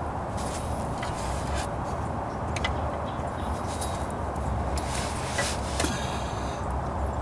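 Steady low background rumble, with scattered light clicks and rubbing scrapes of hands and tools at work.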